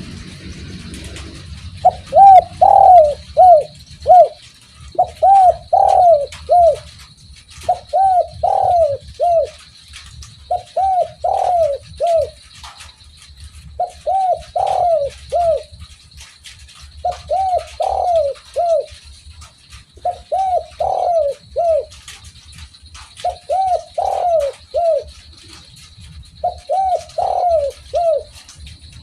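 Spotted dove (derkuku) cooing: a phrase of about four short, arching coos, repeated nine times at roughly three-second intervals, starting about two seconds in.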